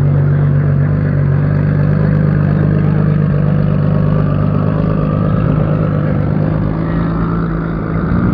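A car engine running steadily with a loud low hum, its pitch rising slightly near the end.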